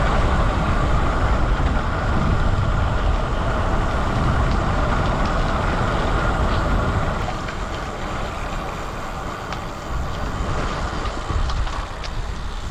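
Wind rushing over the microphone and tyre noise from a road bike riding at speed. It is louder for the first seven seconds or so, then eases a little.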